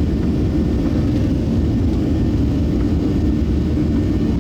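Boeing 737-700's CFM56 jet engines running with a steady low rumble and a faint constant hum.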